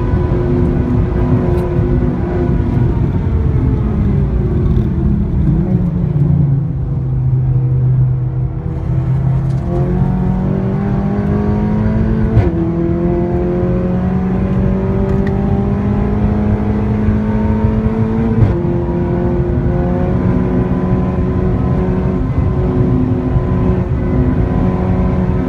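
Seat Leon Cupra's engine and loud exhaust coming off the throttle, its pitch falling and staying low for a few seconds. Then it accelerates hard with rising pitch, broken by sudden gear-change steps about halfway and two-thirds through, and runs fairly steadily near the end.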